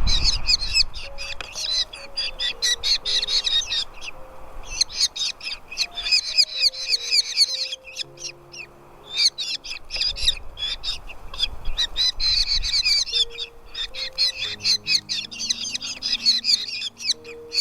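Nestling birds calling in bouts of rapid, high, repeated chirps, each bout a few seconds long with short breaks between, typical of chicks begging for food at the nest. Faint background music with low held notes underneath.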